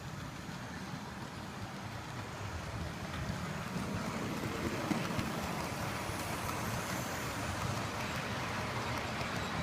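Heavy freight train rumbling, growing steadily louder as it approaches.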